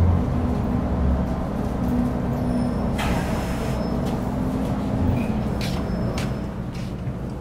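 Metro Cammell M-Train electric multiple unit with GEC GTO chopper traction, heard from inside the car as it slows on its final approach into the station. A short hiss of air comes about three seconds in. The steady chopper and motor hum dies away about five seconds in as the train comes to a stop.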